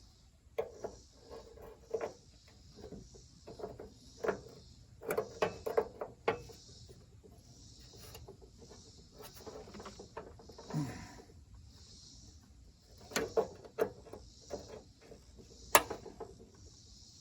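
Vise-grip locking pliers turning a stuck screw in a tractor's sheet-metal panel: irregular small metallic clicks, creaks and scrapes in two clusters, with one sharp click near the end.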